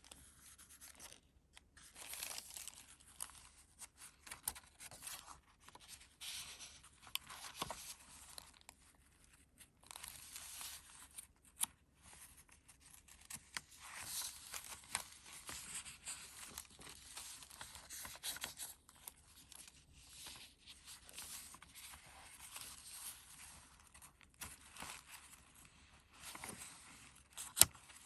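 Paper pages of a handmade junk journal being turned and handled: irregular rustling and crinkling, with a sharp click about halfway through and another near the end.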